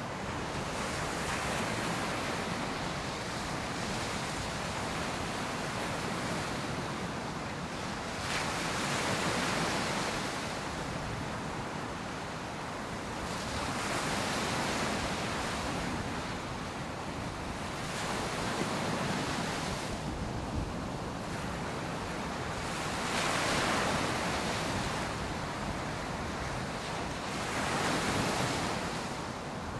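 Ocean surf on a sandy beach: waves breaking and washing up the shore one after another, a swelling rush about every four to six seconds.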